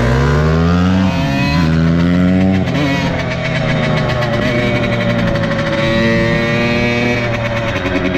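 Dirt bike engine accelerating through the gears: its pitch climbs, drops sharply about a second in and again near three seconds as the rider shifts up, then runs steadier at a lower pitch.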